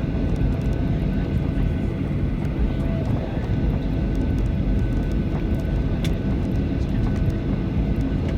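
Steady low cabin rumble of a Boeing 737-800 on the ground after landing, its CFM56-7B engines at idle, with a faint steady whine over it. There is one faint click about six seconds in.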